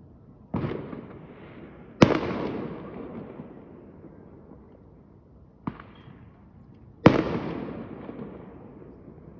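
Fireworks going off: four sharp bangs, the loudest about two seconds and seven seconds in, each followed by a long rumbling echo that dies away.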